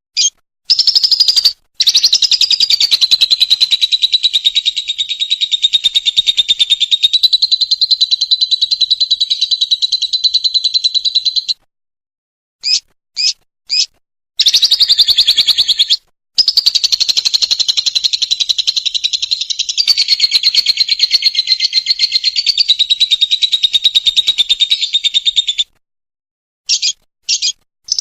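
Lovebird singing its long chattering 'ngekek' trill: two rapid, high-pitched trills of about ten seconds each, separated by a short pause with a few brief chirps, and more short chirps at the start and near the end.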